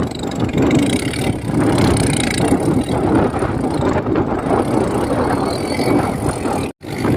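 Swaraj 855 tractor's three-cylinder diesel engine running loud and steady, cutting out abruptly for a moment near the end.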